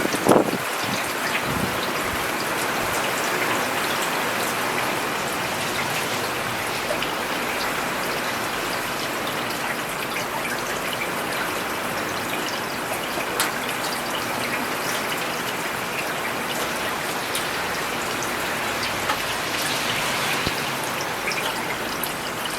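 Steady rain falling on a road and pavement, an even hiss with scattered individual drops ticking, and a short louder low splash right at the start.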